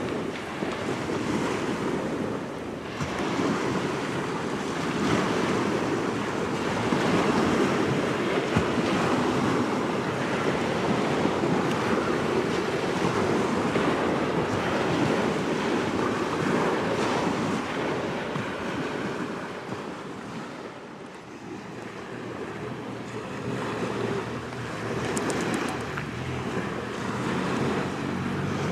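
Wind buffeting the microphone over the wash of small waves on the shore: a steady rushing noise that rises and falls in gusts and eases briefly about three quarters of the way through.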